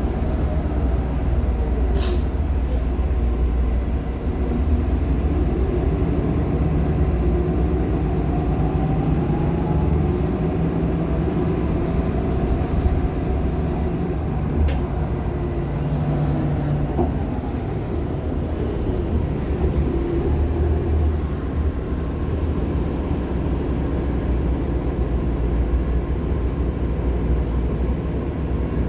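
Nova LFSA HEV articulated hybrid bus under way: its Cummins ISL9 diesel and Allison H50 EP hybrid drive give a steady low rumble, with whine tones gliding up and down and a faint high-pitched tone that slides in pitch. Two sharp clicks come through, one about two seconds in and one near the middle.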